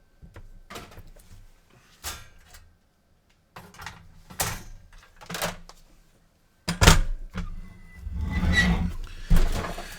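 Handling noise as a PS4 console and a spare circuit board are moved and set down: a string of separate knocks and thunks with short quiet gaps. The sharpest knock comes about seven seconds in, followed by a couple of seconds of scraping and rustling.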